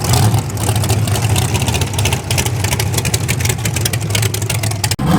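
Twin-turbo Mustang drag car's engine running at a steady, unchanging speed, with a fast rough crackle over a deep drone; it cuts off abruptly about five seconds in.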